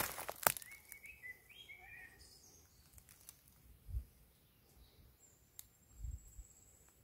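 Small birds chirping in woodland, with a few sharp clicks at the start, a thin high whistle held for about two seconds near the end, and a couple of soft low thuds.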